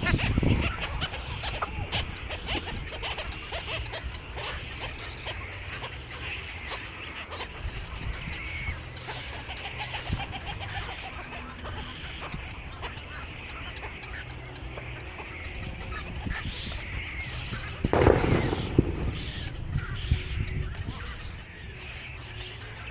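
Many birds calling and chirping together, with short high calls overlapping throughout over a low background rumble. A sudden louder noise breaks in about eighteen seconds in.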